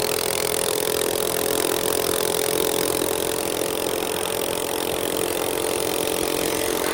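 Small minibike engine running at steady high revs under way, its pitch holding constant, over a rushing noise.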